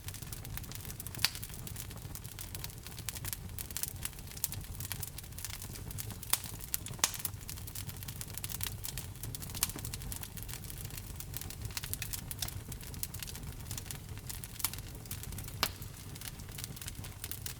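Fire in a fireplace crackling: frequent sharp pops and snaps over a low, steady rumble, with a few louder pops.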